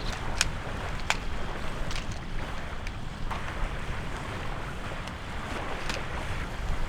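Strong wind buffeting the microphone, with waves washing on the shore and a few scattered sharp clicks and knocks.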